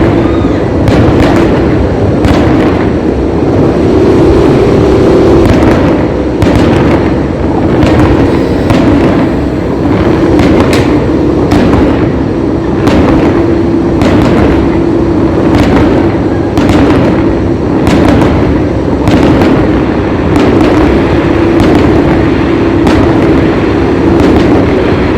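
Fireworks display: a loud, near-continuous barrage of bursts and booms, dozens of reports following one another at irregular intervals with no pause.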